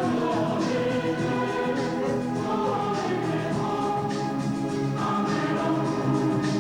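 Choral music: a choir singing sustained chords over instrumental accompaniment.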